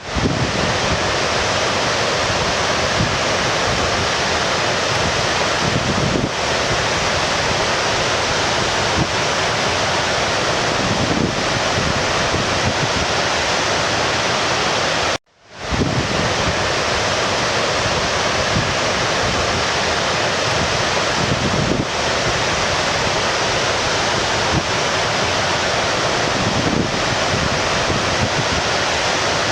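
Stream water rushing steadily, a dense even noise. About halfway through it cuts out suddenly and fades back in, as a looped recording restarts.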